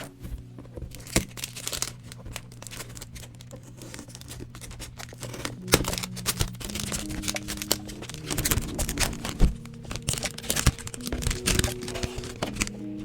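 Packaging crinkling and being torn open in many short crackles and snaps, busier and louder from about halfway on, over background music with held notes.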